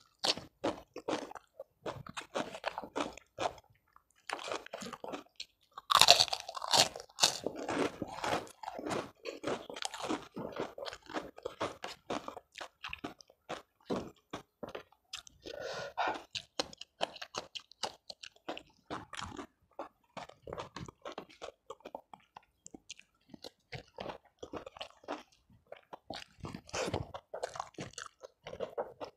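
Close-miked chewing of a mouthful of food, with crunching bites throughout; the loudest crunches come about six to seven seconds in.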